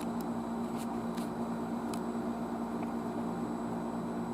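Steady low electrical hum with a few faint, light clicks scattered through it.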